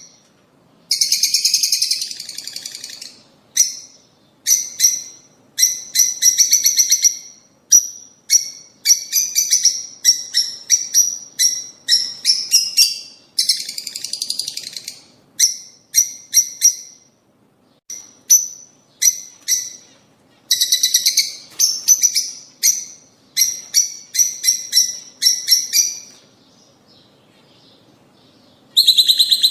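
Lovebirds calling: loud, shrill, high chirps come in rapid bursts, one after another, then break off for about three seconds near the end.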